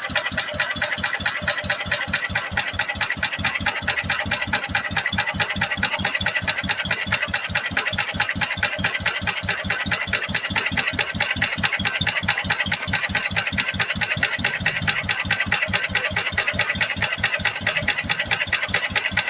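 McCormick Farmall M's four-cylinder gasoline engine running at a steady speed after a cold start, with an even, rapid exhaust beat.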